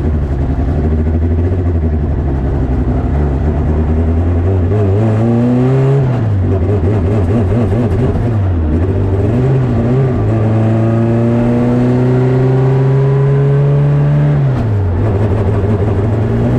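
Honda CRX engine pulling under load on a fresh E85 tune: the revs climb about four seconds in and fall off sharply around six seconds, then climb steadily again from about ten seconds until a sharp drop near the end, like upshifts during acceleration.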